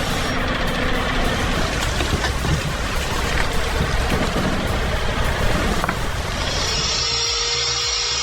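A heavy vehicle's engine running, with dense rumbling noise. About seven seconds in, the sound changes abruptly to a steady high whine.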